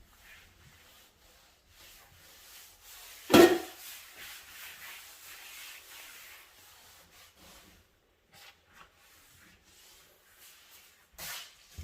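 Brush scrubbing on a dirty stovetop or oven surface, a scratchy rubbing that runs for a few seconds and then thins out to scattered strokes. A single loud knock comes about three and a half seconds in, and a brief scrape near the end.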